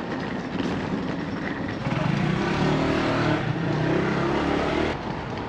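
A motor vehicle's engine running close by in the street over traffic background noise. It gets louder about two seconds in and drops away near the end.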